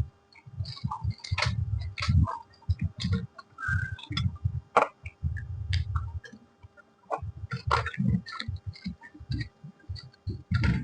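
Close-miked chewing and mouth sounds of someone eating puri with potato sabzi: a rhythmic run of soft chewing thuds, broken by short pauses, with wet clicks and smacks.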